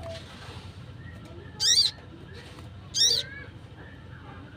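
Crimson sunbird (sogon) calling: two short, high, rapidly warbling calls a little over a second apart.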